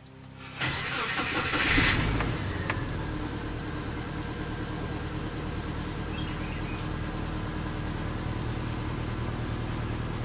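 Subaru Forester's flat-four engine starting, with a short burst of noise that peaks about two seconds in, then settling into a steady idle.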